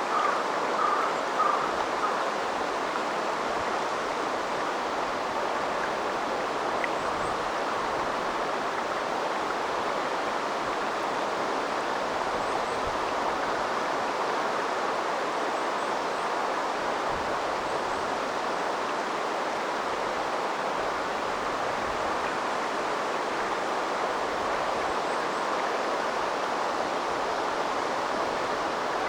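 A shallow river flowing: a steady rush and burble of water over stones. A few faint, high, short chirps come through now and then.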